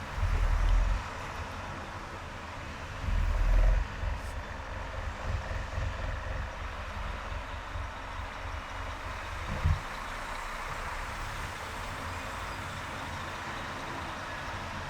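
Steady road and traffic noise from a car driving on a highway, broken by two loud low rumbles in the first four seconds and a shorter one near the ten-second mark.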